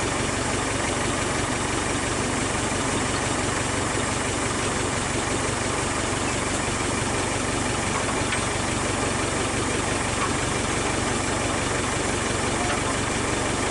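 An engine idling steadily, without any change in speed.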